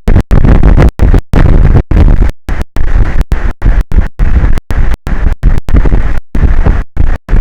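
Loud wind buffeting the microphone of an offshore tower camera, heard as a rough, rumbling noise that keeps cutting out abruptly into brief silences several times a second.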